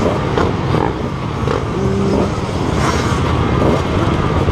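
Several motocross bikes' engines revving up and down together, their pitches rising and falling over one another, with one engine holding a steady note for about half a second around two seconds in.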